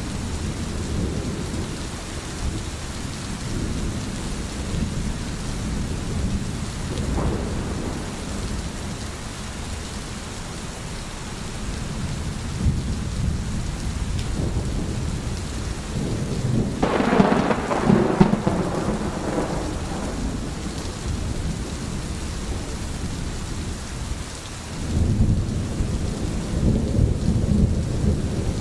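Steady rain with thunder rumbling underneath: a louder clap of thunder rolls for about two seconds a little past halfway, and another low roll of thunder swells near the end.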